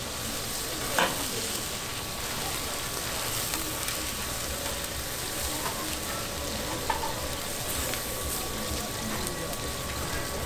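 Sheet of cold noodles frying in oil on a steel flat-top griddle, a steady sizzle. Two sharp clicks cut through it, a louder one about a second in and a smaller one near seven seconds.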